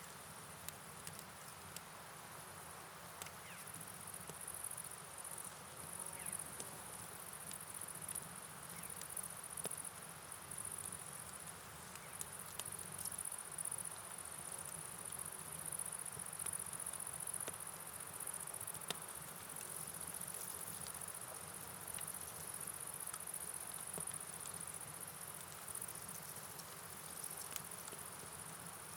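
Night ambience: a steady high-pitched chorus of crickets over a soft, even hiss of rain and running water, with scattered light ticks of drops.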